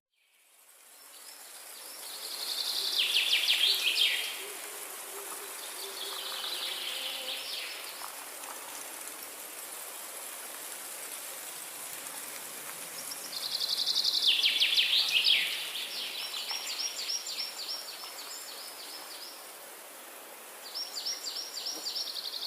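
Forest ambience of songbirds singing rapid trilled phrases, several songs in turn with pauses between, over a steady high-pitched hiss. The sound fades up from silence at the start.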